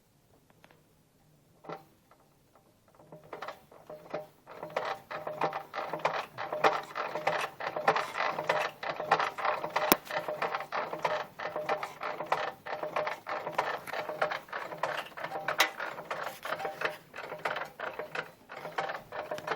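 Daewoo Lanos 1.5 clutch disc knocking: a fast, dense metallic clatter that starts about three seconds in and keeps going, which the owner puts down to the clutch disc.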